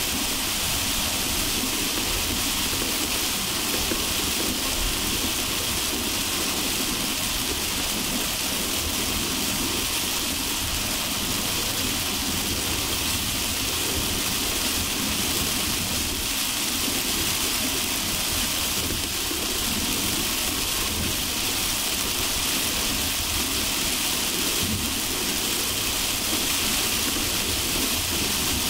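Heavy rain falling on a moving car, an even steady hiss over a low rumble of tyres on the wet highway.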